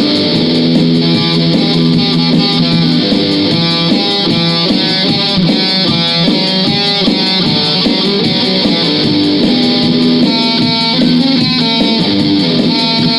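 Guitar playing a continuous jam of riffs and licks, with held notes ringing into one another and no pauses.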